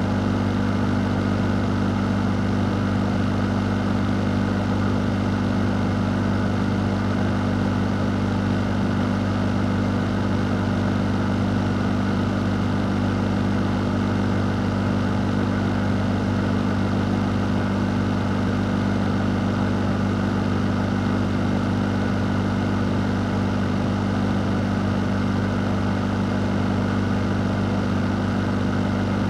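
Fan running steadily for white noise: a constant low hum under an even rush of air, with no change.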